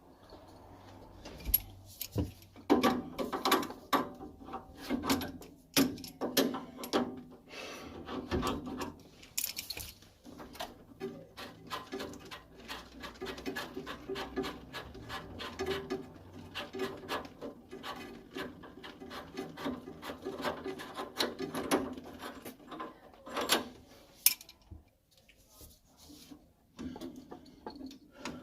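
Hand work on boiler parts: many small clicks and knocks of tools and metal fittings being handled, with rubbing and scraping in between.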